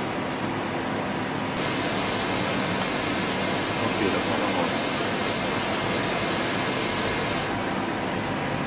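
Hitachi Seiki Hi-Turner 20 CNC lathe running with a steady hum of several low tones. A loud, even hiss switches on about one and a half seconds in and cuts off sharply about six seconds later.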